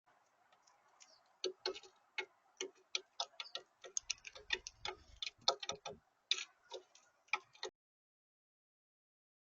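Rapid, irregular sharp taps and clicks of birds pecking at a bird feeder, with a brief low bump about four seconds in.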